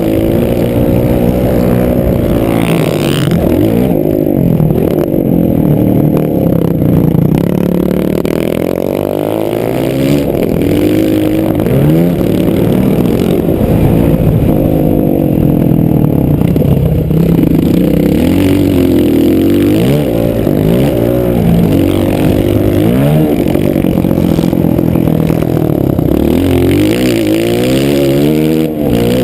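Motocross bike engine heard close up, revving hard and easing off over and over, its pitch climbing and dropping with each burst of throttle and gear change.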